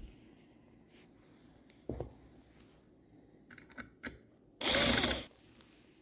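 Cordless drill-driver running in one short burst of about half a second near the end, driving a screw into the wood. Before it come a knock and a few light clicks of the tool and workpiece being handled.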